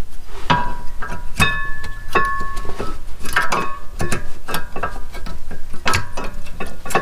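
Brake pads and their metal clips being fitted into a rear brake caliper bracket: a run of irregular metallic clicks and knocks, several of them ringing on briefly.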